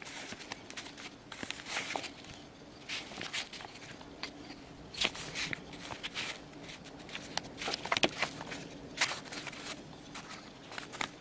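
Sandpaper rubbed by hand against a bird's eye maple knife handle, in short, irregular scratchy strokes.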